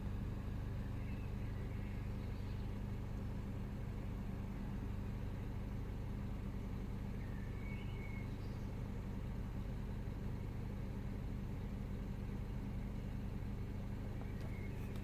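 Peugeot RCZ 1.6 THP turbocharged four-cylinder petrol engine idling steadily while warming up after a cold start, with no dip in revs.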